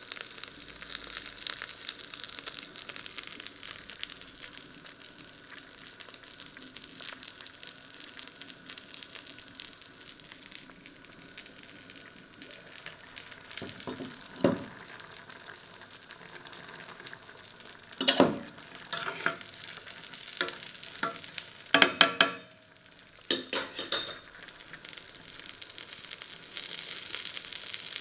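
Breaded fish fingers frying in shallow oil in a pan: a steady crackling sizzle. In the second half several sharp knocks and clatters cut in, a few at a time, the loudest about two thirds of the way through.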